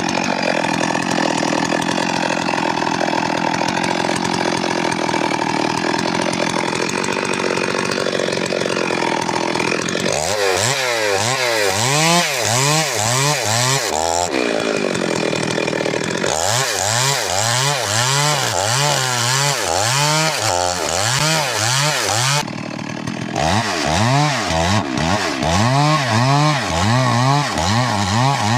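Stihl MS 382 two-stroke chainsaw running, steady for the first ten seconds or so, then its engine pitch rising and falling over and over, about once or twice a second, with a short break about three quarters of the way through.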